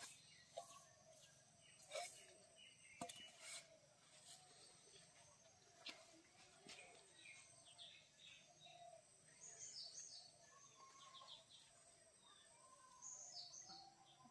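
Near silence: faint outdoor ambience with scattered bird chirps, and a few soft clicks in the first six seconds.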